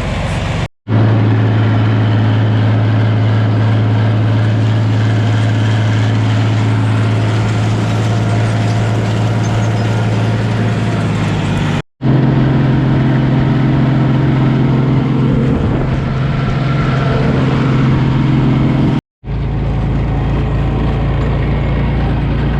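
Vehicle engine running steadily with a low drone, heard in three spliced stretches that cut abruptly from one to the next, the engine's pitch a little different in each.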